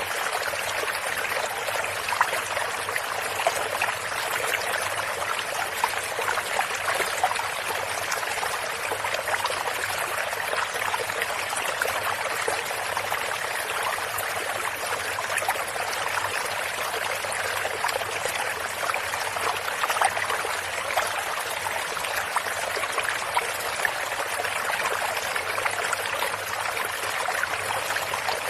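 Small stream or brook running steadily, water trickling and splashing over stones with many small bright splashes.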